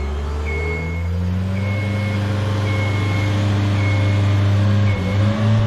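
Genie lift's engine running and speeding up about a second in, with its motion alarm beeping a short steady tone about once a second as the lift moves.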